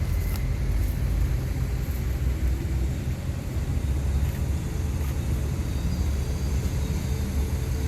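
Heavy earthmoving machinery running: a steady low diesel rumble without pauses or sharp impacts.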